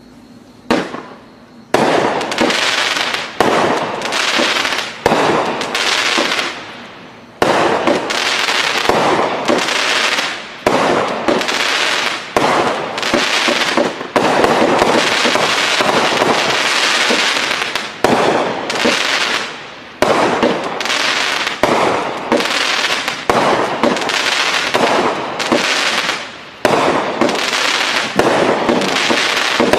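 A 500-gram aerial firework cake from a Sunwing Pyro Club assortment firing shot after shot. It starts about two seconds in, and each shot is a sudden loud report followed by a dense fading wash of noise, repeating about every one to one and a half seconds.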